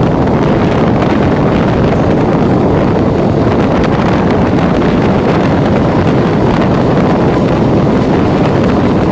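EMU suburban electric train running steadily, heard on board, with wind buffeting the microphone.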